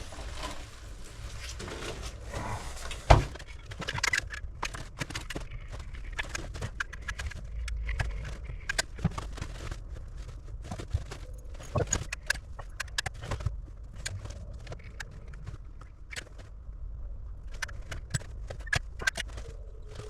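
Irregular clicks, taps and rustling from hands-on work, over a low rumble, with one sharp knock about three seconds in.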